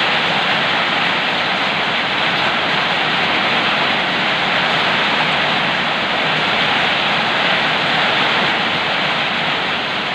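Heavy rain falling, a loud steady hiss that holds even throughout.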